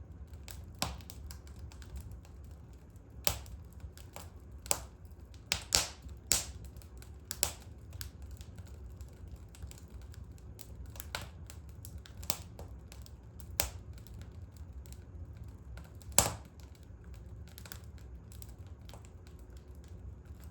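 Fire in a fireplace crackling, with irregular sharp pops over a low steady rumble; the loudest pop comes about sixteen seconds in.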